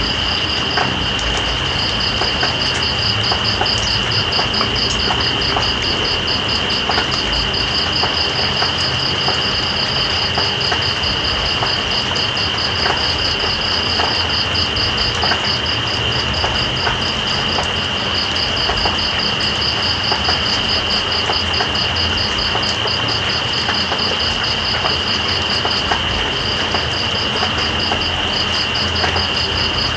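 Night insects calling over steady rain. One holds a continuous high whine, and another gives a fast pulsing trill that breaks off briefly a few times. Raindrops tick against a constant patter.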